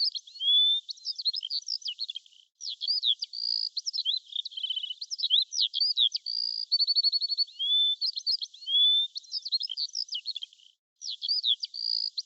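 Birds chirping: a busy run of quick chirps, short rapid trills and rising whistles that repeats as a loop, broken by two brief silent gaps, one about two and a half seconds in and one near the end.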